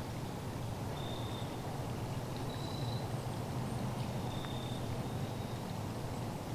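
Quiet outdoor ambience: a steady low rumble, with a few short, thin high-pitched notes about a second in, near the middle and in the second half.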